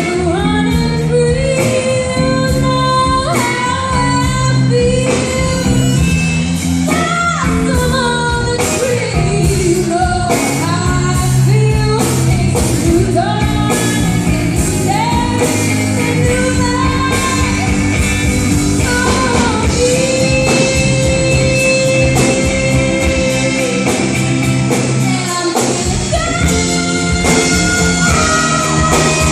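Live rock band playing loudly in a large hall, with singing and guitar over the full band.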